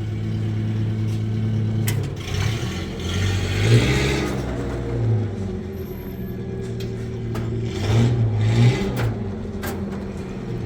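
A motor or engine runs with a steady low hum, its pitch bending briefly twice, about four and eight seconds in, with a hissing rush around three to four seconds in.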